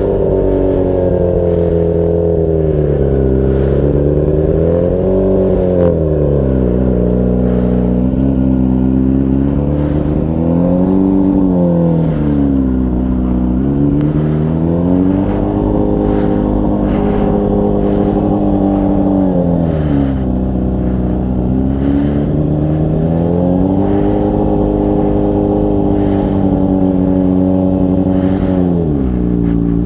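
Motorcycle engine running, its pitch falling and rising several times as the throttle is closed and opened again.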